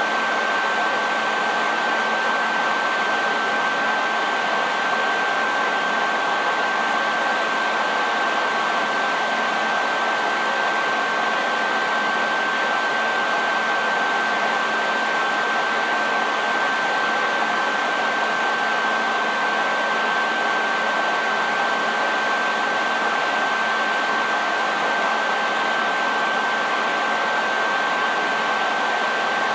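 Hair dryer running steadily: an even rush of blown air with a constant high whine from the motor and a faint low hum underneath.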